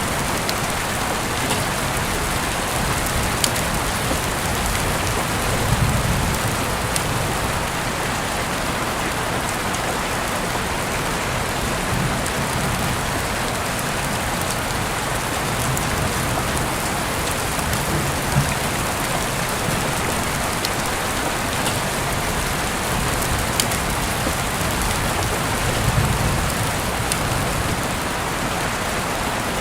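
Heavy rain falling steadily, a dense even hiss with the odd sharp tick of a single drop. A few brief low swells come and go every several seconds.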